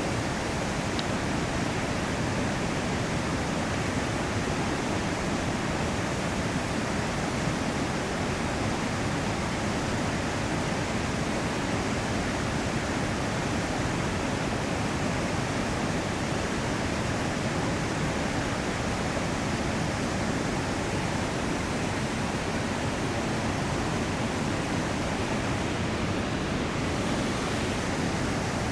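River rapids rushing in a steady, unbroken roar of white water.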